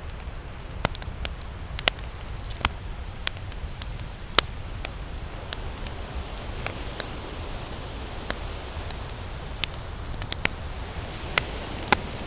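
Campfire crackling: burning wood gives sharp, irregular pops about once or twice a second over a steady low rumble. The loudest pops come about four seconds in and near the end.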